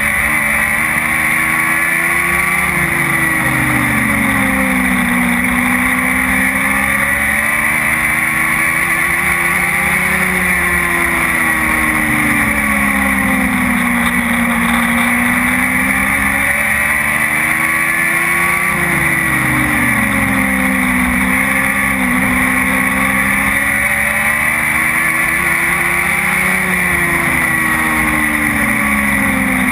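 Dwarf race car's engine under racing load. Its pitch climbs hard and then falls away in a regular cycle about every eight seconds, as it accelerates down each straight and backs off for the turns.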